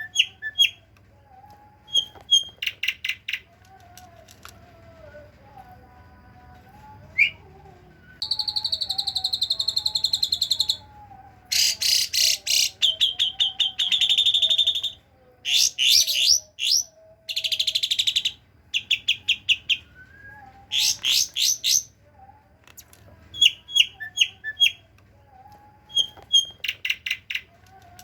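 Asian pied starling (jalak suren) singing a mimicked medley of cililin and kapas tembak song: short bursts of rapid, high chattering notes, then long buzzy trills through the middle, with the chattering bursts coming back near the end.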